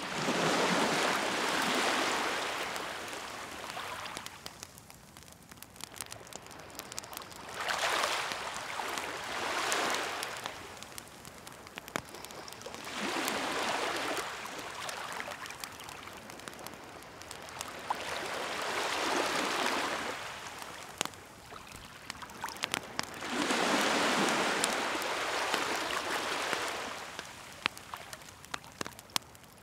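Waves washing in on a shore in slow swells, each rising and falling away over a few seconds, about five in all. Throughout, a wood fire crackles and pops with scattered sharp snaps.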